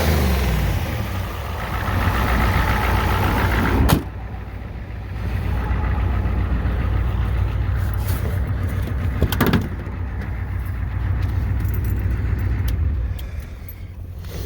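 Vehicle engine running steadily at idle. About four seconds in the sound cuts abruptly to a quieter, duller engine running on, with one short sharp knock about halfway through.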